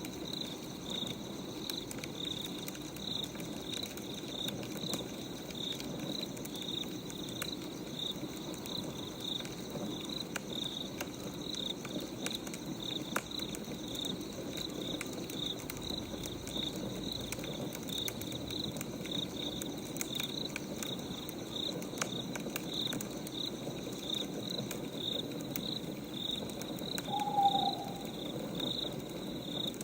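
Crickets chirping in a steady, regular rhythm over the scattered crackle of burning firewood, with one short owl hoot near the end.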